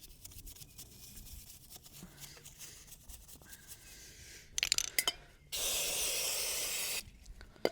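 Faint scrubbing of a paintbrush inside a mini dirt bike's clutch housing, then a few clicks, then aerosol brake and clutch cleaner sprayed in one steady hiss of about a second and a half that cuts off suddenly.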